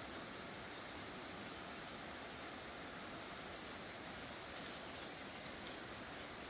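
Steady outdoor background hiss with a thin, steady high-pitched tone running through it and a couple of faint ticks.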